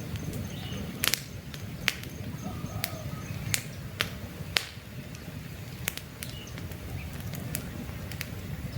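Wood campfire crackling: irregular sharp pops and snaps, the loudest about a second and two seconds in, over a low steady rumble of the burning fire.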